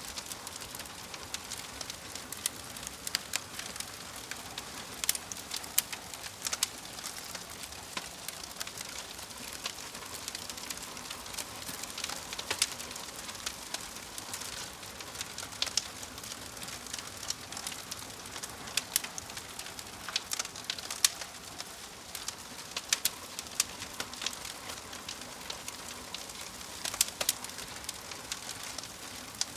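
Wood log fire crackling: a steady hiss with frequent, irregular sharp pops and snaps.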